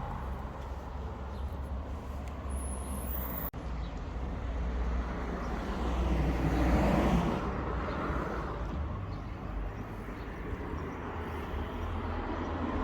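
Road traffic on a town street: a vehicle passes, growing louder to a peak about seven seconds in and then fading back to the steady background.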